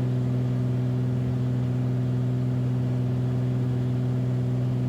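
Beechcraft Bonanza's piston engine and propeller droning steadily in the climb-out after takeoff, heard from inside the cockpit.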